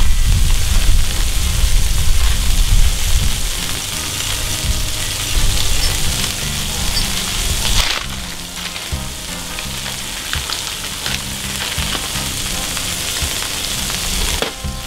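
Ground-beef patties and sliced onions frying on a flat-top griddle, a steady sizzling hiss with a low rumble underneath. It eases a little about halfway through.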